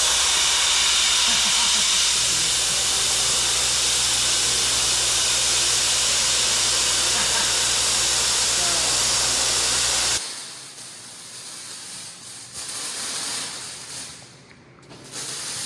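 Plasma cutter running: a loud, steady hiss of cutting air, with a low electrical hum that joins about two seconds in as the arc cuts steel frame rail. Both stop abruptly about ten seconds in, leaving quieter, uneven shop noise.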